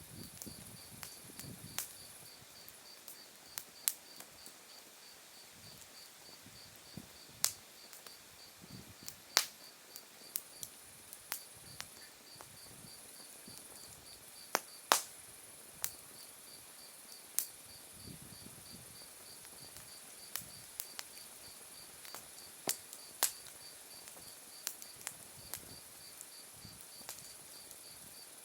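Wood fire crackling, with sharp pops from the burning logs every second or two, over autumn insects singing: one chirping in a fast, even pulse and another in a high continuous trill.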